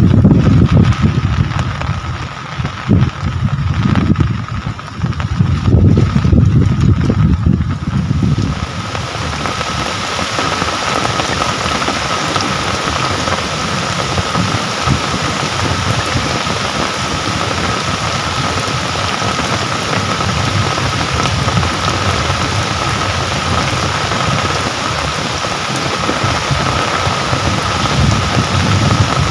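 Rain falling steadily, an even hiss. For about the first eight seconds a loud, low, gusting rumble rides over it, then it gives way to the plain rain hiss with a faint steady tone running through it.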